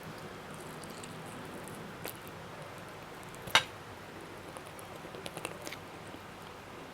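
Eating sounds at the microphone: quiet chewing with small wet clicks, one sharper click about halfway through and a short run of small clicks near the end.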